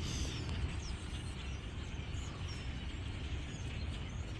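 Scattered short high chirps from a huge flock of birds in flight, over a steady low rumble.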